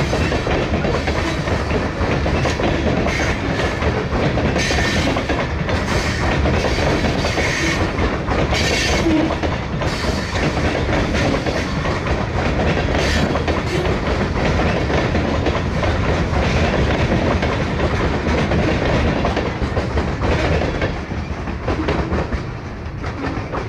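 Loaded coal hopper cars rolling past close by, steel wheels clicking and banging over the rail joints in an uneven rhythm, with wind buffeting the microphone. The noise eases slightly near the end as the last car goes by.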